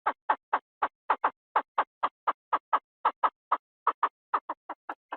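Chinese francolin call: a fast, even series of short, harsh notes, about four to five a second. Near the end the notes come quicker and fainter, then stop abruptly.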